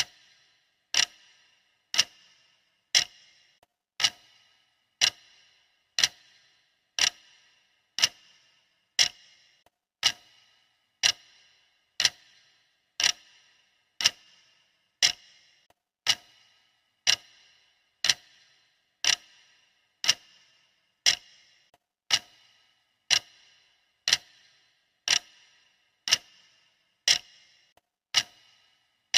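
Countdown timer's clock-style ticking, steady and even at about two ticks a second.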